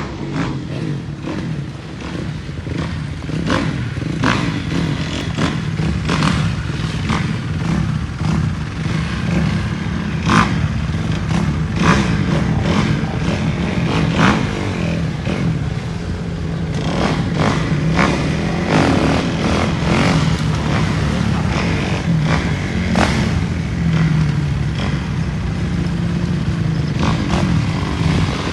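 Dirt bike engine running, a steady low drone that wavers in pitch, with many irregular sharp clicks and knocks over it.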